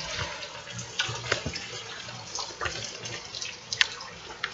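Steady rain falling and running off, with water splashing and a few sharp drip taps scattered through.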